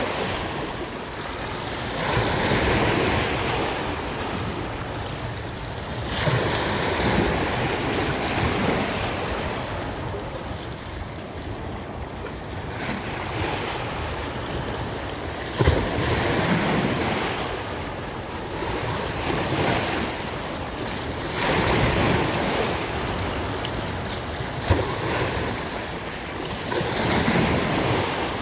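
Sea waves washing against the shore, swelling every few seconds, with wind buffeting the microphone. Two brief knocks, one about halfway through and one near the end.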